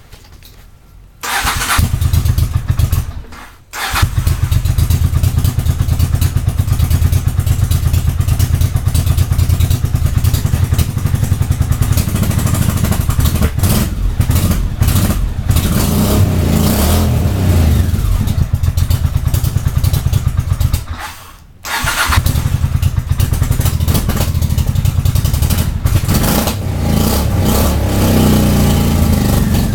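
Motorcycle engine cold-started, catching about a second in and running at a fast, uneven idle with a few revs. It drops out twice, briefly after a couple of seconds and again later on, and catches again each time.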